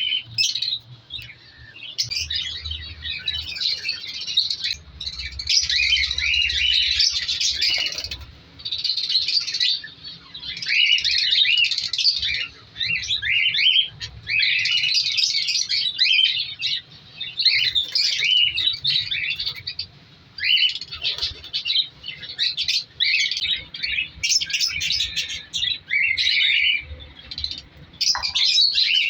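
A colony of African lovebirds chattering: many shrill, rapid high-pitched chirps in dense bursts lasting a few seconds each, with brief lulls between.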